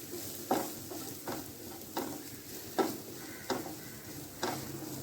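A spoon stirring and scraping onion and spice masala as it fries in oil in a pan, over a steady sizzle. The scrapes come in a rough rhythm, about one every three-quarters of a second.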